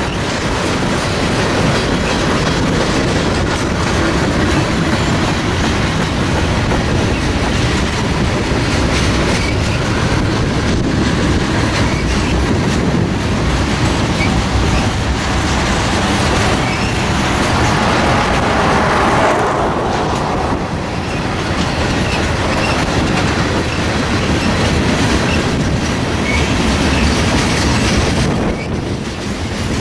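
Freight train of tank cars and covered hopper cars rolling past at close range, a loud, continuous rumble of steel wheels on rail that eases briefly near the end.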